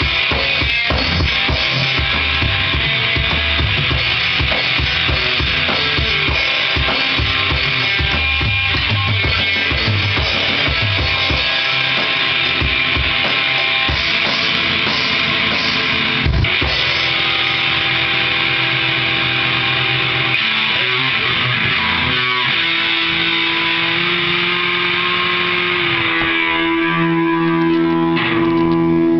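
Drum kit and guitar jamming together, the drums playing a busy beat with heavy bass-drum hits. About sixteen seconds in a single loud hit lands, the drumming thins out, and in the last few seconds the guitar holds a long ringing note.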